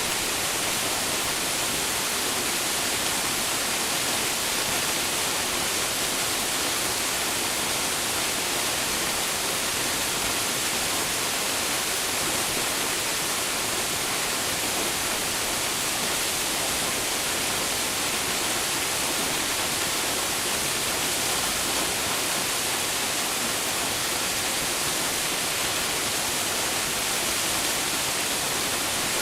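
Waterfall falling into its pool: a steady, unbroken rush of water, strongest in the high hiss.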